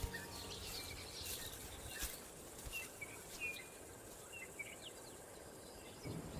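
Faint bush ambience: an even background hiss with scattered short bird chirps and a few sharp clicks. A low rumble begins to build right at the end.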